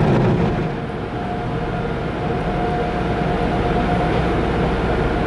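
Steady rushing noise of a tunnel car wash's drying equipment at the exit end, heard from inside the car. It dips slightly about half a second in, and a steady whine joins it there.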